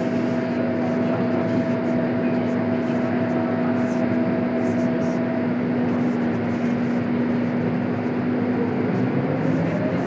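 Scania K230UB city bus running steadily, its engine and driveline giving a constant drone with a steady hum. Near the end a rising whine begins as the bus starts to accelerate.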